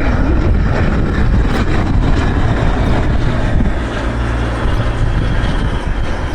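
Jet aircraft engines producing a loud, steady rumble with a faint high whine above it.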